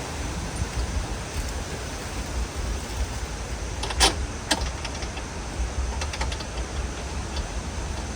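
Lawn mower parts being handled and fitted together during assembly: a few sharp clicks and knocks, the two loudest about four seconds in, over a low steady rumble.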